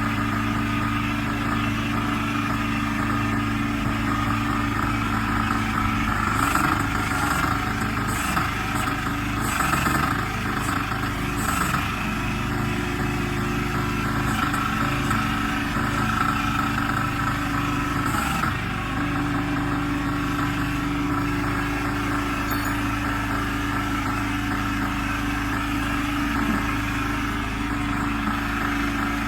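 Diesel engine driving an interlocking clay brick making machine, running steadily, its note wavering briefly a few times.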